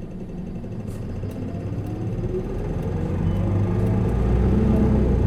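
Isuzu Erga LV290N1 city bus's four-cylinder turbo-diesel engine, heard from inside the bus, accelerating under load: its note rises in pitch and grows steadily louder from about a second in until near the end.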